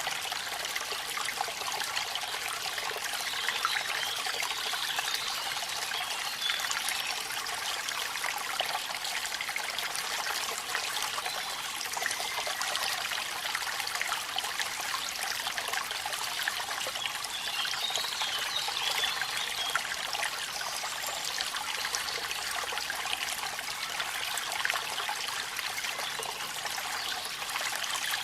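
Rain falling at a waterfall: running water and rain make a steady hiss, dense with the patter of drops.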